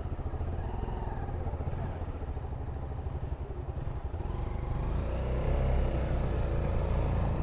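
Motorcycle engine running as the bike is ridden, getting louder about five seconds in as it picks up.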